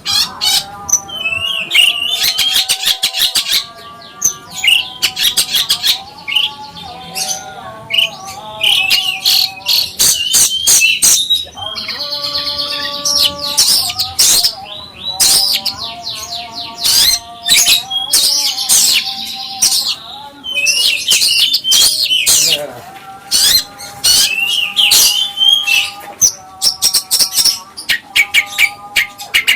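Songbird singing a fast, varied song of rapid chirps and trills mixed with short held whistles, without a pause.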